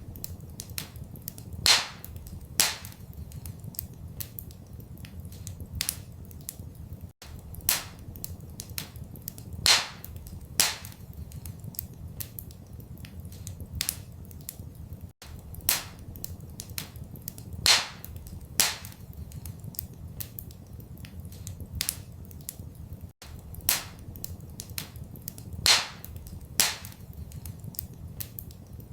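Wood fire crackling in a fireplace: a stream of small snaps and a few louder pops over a steady low rumble. It is a looped recording, and the same pattern of pops repeats about every eight seconds.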